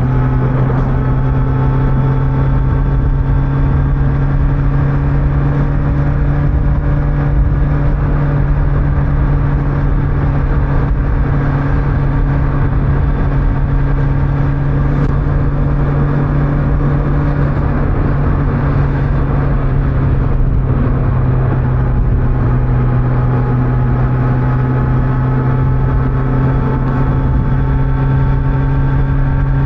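Kawasaki Z900's inline-four engine, on its stock exhaust, running at a steady engine speed while riding, with a low rumble of wind and road noise underneath.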